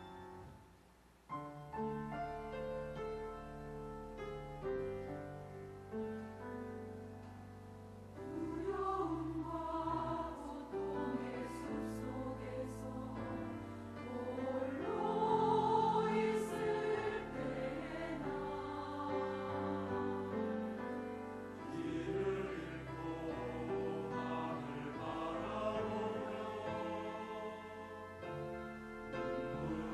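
Church choir singing a slow sacred anthem with piano accompaniment. The piano plays alone at first, and the choir comes in about eight seconds in, after which the music is fuller and louder.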